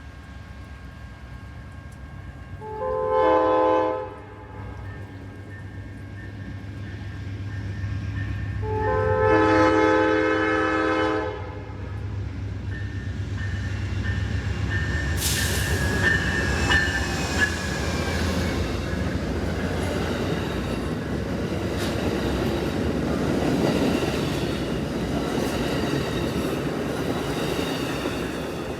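Amtrak P42DC diesel locomotive sounding its multi-note air horn: a short blast about three seconds in and a longer one a few seconds later, the close of a grade-crossing signal, over the low drone of the diesel engine. The train then passes close by with loud, steady rail and wheel noise and some high wheel squeal.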